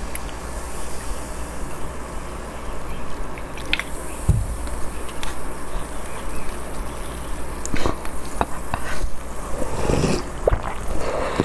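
Close-miked eating sounds: wet chewing and mouth clicks, sparse at first and thickening into a run of sharp, wet clicks and smacks in the last few seconds.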